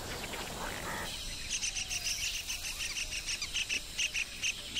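Forest wildlife ambience: a short high chirp repeated in a steady, rapid series from about a second in, over a soft background hiss.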